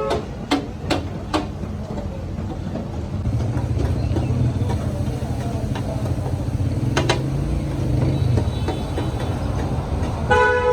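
Street traffic: a vehicle engine rumbling steadily, a few sharp clicks early on and once more in the middle, and a short vehicle horn honk near the end.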